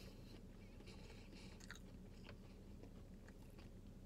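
Faint chewing of french fries, with a few soft mouth clicks.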